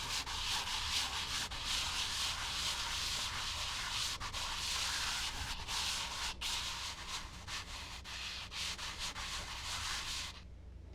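Charcoal rubbed over smooth Bristol paper: a continuous scratchy hiss in quick repeated strokes, stopping just before the end.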